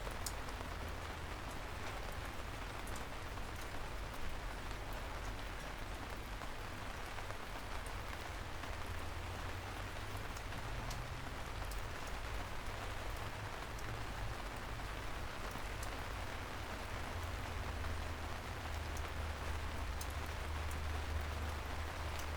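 Steady soft rain falling on city streets, an even hiss with scattered single drops ticking through it, over a steady low rumble.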